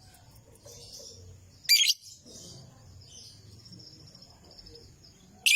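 Lovebird giving two short, loud, shrill chirp bursts, one nearly two seconds in and one at the end, with softer twittering in between over a low background rumble.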